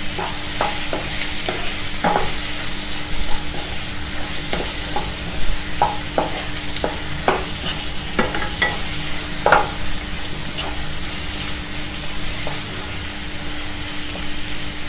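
Chopped onions and tomatoes with spices sizzling in oil in a nonstick pan, the masala being sautéed down toward a paste. A plastic spatula stirs and scrapes across the pan with irregular strokes about once or twice a second over a steady frying hiss.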